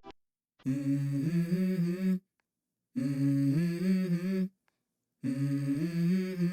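Music: a low voice humming three short melodic phrases, each about a second and a half long, with dead silence between them.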